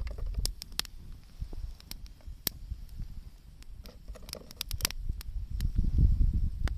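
Wood campfire crackling, with sharp irregular pops and snaps, a quick cluster of them about two-thirds of the way in, over a low rumble.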